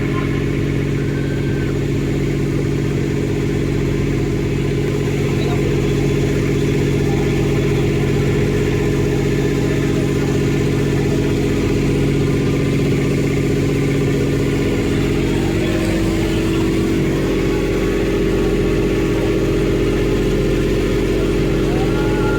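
Engine of the boat towing a banana boat, running steadily at speed; its note shifts about two-thirds of the way through.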